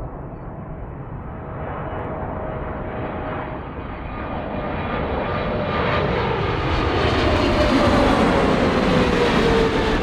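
Jet airliner's engines passing close by, growing louder through the clip, with a whine that drifts slowly lower in pitch as it goes by.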